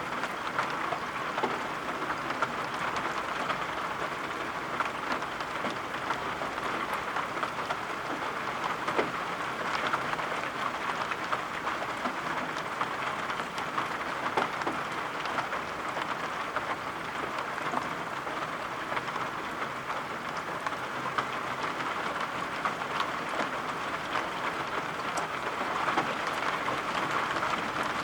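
Steady rain falling: an even hiss with many small scattered taps of drops.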